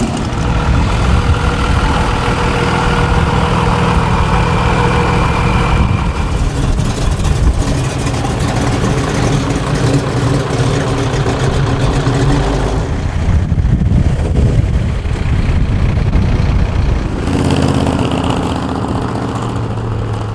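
Classic car engines idling and running at low speed as cars roll slowly past. The engine note changes abruptly a few times as one car's sound gives way to another's.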